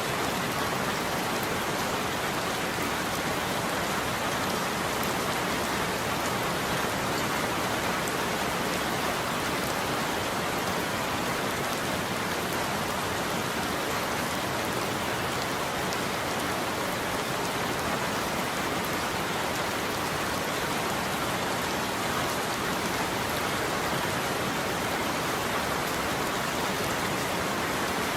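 Steady rain falling on a roof, an even hiss of drops with no change in strength.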